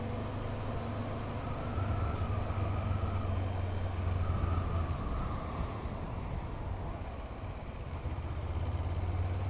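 Honda CB500F parallel-twin motorcycle engine running while riding, a steady low drone whose pitch rises and falls a little with the throttle.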